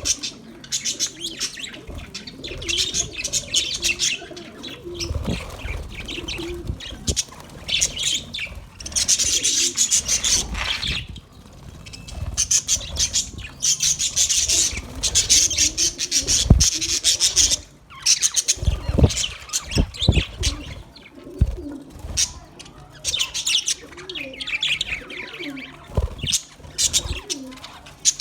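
Budgerigars chattering and chirping in long runs of rapid high-pitched warbling, with short breaks. Scattered low thumps come in between.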